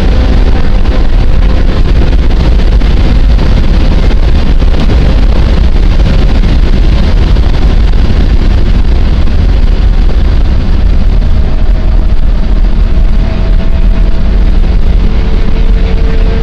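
BMW E30 engine running hard at high revs, heard loud from inside the cabin with heavy wind and road noise. Near the end the engine note drops as the car brakes for a corner.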